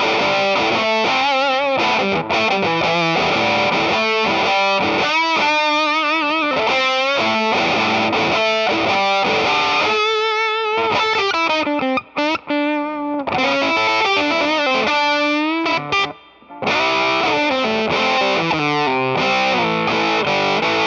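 Electric guitar played through an Earthquaker Devices Sound Shank germanium fuzz pedal: a fuzzed lead line of bent, wavering notes. It breaks off briefly about twelve seconds and again about sixteen seconds in.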